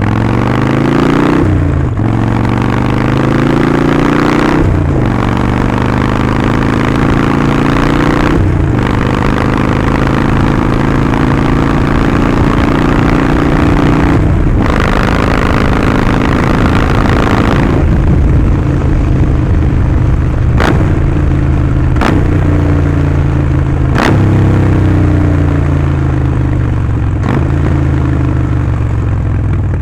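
Harley-Davidson Sportster Forty-Eight's 1200 cc air-cooled V-twin, breathing through a Vance & Hines slip-on exhaust, pulling hard under way. It climbs in pitch through several gears, with a short dip at each shift. In the second half a few sharp cracks cut through the engine note.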